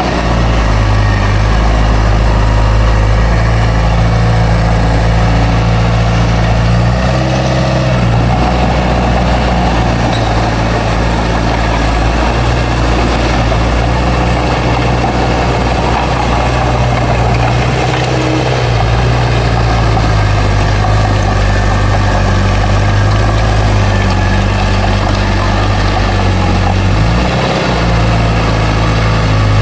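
Bulldozer's heavy diesel engine running steadily and loudly, its note dipping and shifting a few times as the load changes.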